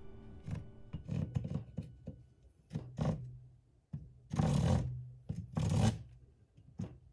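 Saw cutting through wood in separate, unhurried rasping strokes, with the two loudest strokes a little past the middle.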